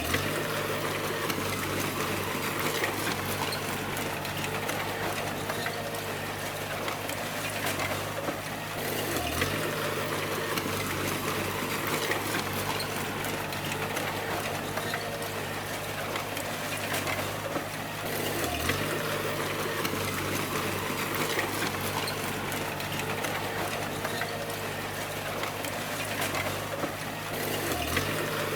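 Bulldozer diesel engine running steadily under load, with the clatter of its steel tracks. The engine note dips briefly and recovers three times, about nine seconds apart.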